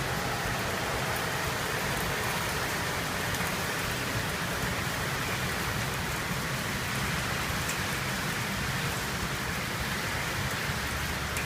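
Heavy downpour: steady, dense rain hissing and pattering on surfaces without letup.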